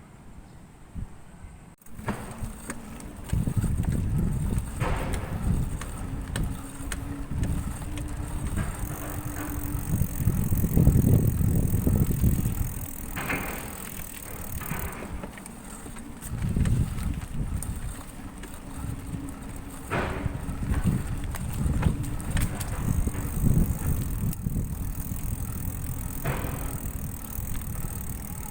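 Riding noise from a mountain bike: a low, uneven rumble of wind and tyres on the microphone that swells and falls, with occasional sharp clicks and rattles. It starts abruptly about two seconds in.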